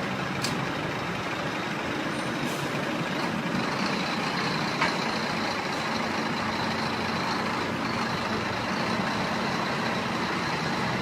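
A truck on the move: steady engine and road noise, with a few small clicks.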